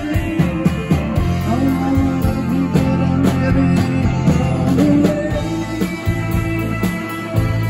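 Live rock band playing: guitar over bass and a steady drum beat.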